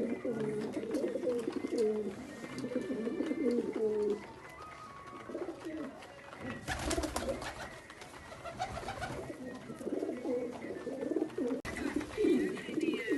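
Domestic pigeons cooing in repeated low, warbling phrases, with a pause in the middle where a brief rustling scuffle is heard.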